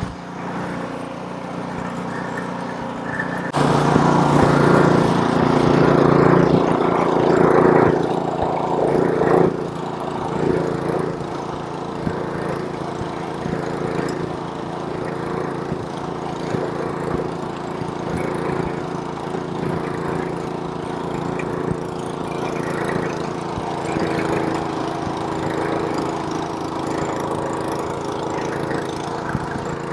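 Gasoline snowblower's small engine running steadily. A few seconds in it grows louder and rougher for about six seconds, then settles back to an even run.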